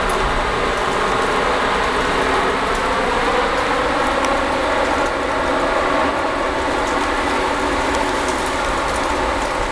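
Thunderstorm: a loud, steady rushing and rumbling that runs on without a break.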